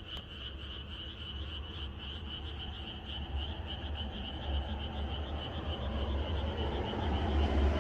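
Chorus of many frogs calling together in a steady, pulsing trill. A low rumbling noise builds and grows louder over the last few seconds.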